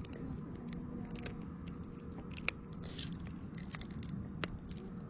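Scattered small clicks and crinkly scrapes of a hook being worked out of a small crappie's mouth, over a steady low rumble.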